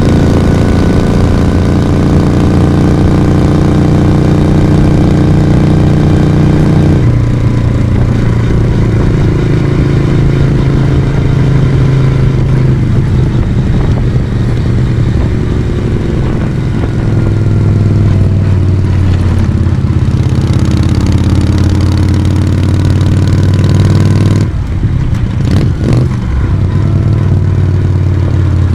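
Moto Guzzi V35's air-cooled 90° V-twin running under way, with a steady exhaust note. About seven seconds in the pitch drops to a lower steady note, and about twenty-five seconds in the sound breaks off briefly a few times before picking up again.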